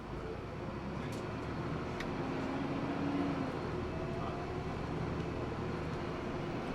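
Hino Blue Ribbon II city bus running, heard from inside the cabin, its engine growing louder over the first few seconds as it pulls harder. There are a couple of sharp clicks about one and two seconds in.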